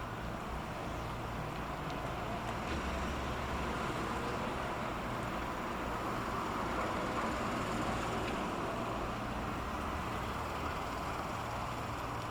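Diesel engine of a pusher tug moving a barge through the strait: a steady low rumble with a wash of noise, growing a little louder towards the middle and easing off near the end.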